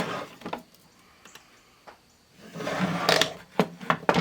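Handling noise from a plastic-cased 8-track player being worked on: a scrape at the start with a click, then after a pause another scrape and a quick run of four sharp clicks and knocks near the end.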